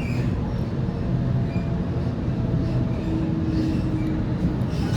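Steady rumble of a Waratah A set electric train heard from inside the carriage as it runs along the track, with a faint hum rising out of the noise about three seconds in.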